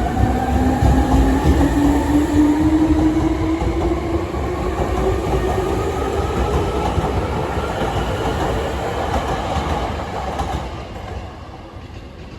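Hankyu 3300 series electric multiple unit running, its traction motors and gears whining steadily higher in pitch as it gains speed over a heavy rumble of wheels on rail. The sound drops away from about ten seconds in.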